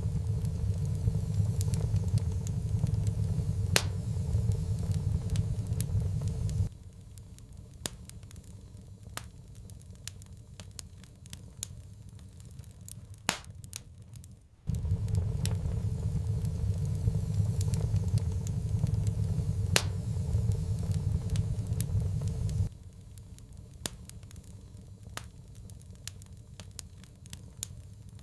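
Wood fire in a fireplace crackling, with frequent sharp pops and snaps. A loud low rumble cuts in and out abruptly twice, lasting about eight seconds each time.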